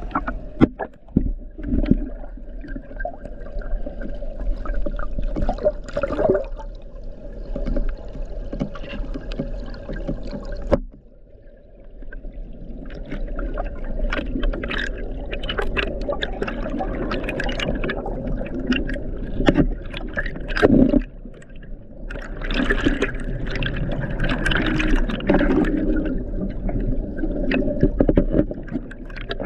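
Water splashing and gurgling, with many sharp knocks throughout, and a sudden break about eleven seconds in.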